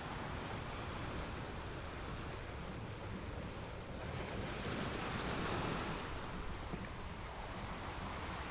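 Steady rushing noise, like surf or wind, that swells a little about five seconds in.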